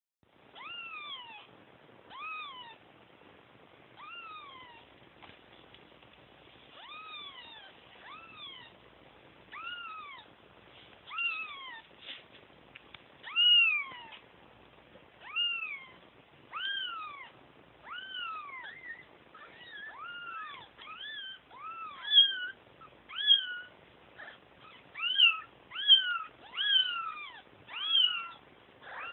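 Kittens meowing over and over, crying for their mother: high calls that each rise and fall in pitch. They come about one every second or two, then grow louder and more frequent and overlap in the second half, as more than one kitten calls at once.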